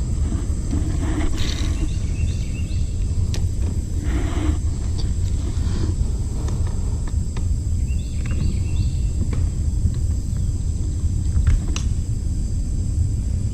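Wind buffeting the microphone as a steady low rumble, with a few faint clicks on top.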